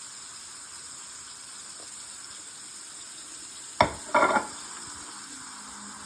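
Steady sizzling hiss of frying oil. About four seconds in there is a sharp click, then a short louder burst of noise.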